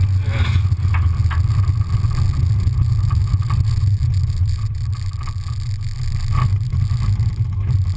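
Ford Fiesta XR2's four-cylinder engine and exhaust running at low revs, a steady low drone as the car rolls slowly, with a few light knocks.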